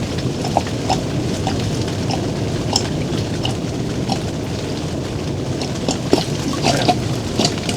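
Rain falling: a steady rush with scattered, irregular drops ticking.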